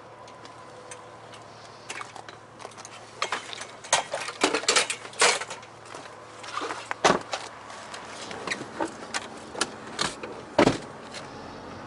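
A series of irregular knocks and clatters, the loudest about four to five seconds in, around seven seconds and near the end.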